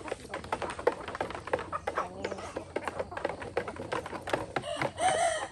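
Rapid, irregular clicking and tapping throughout, with a short warbling chicken call near the end.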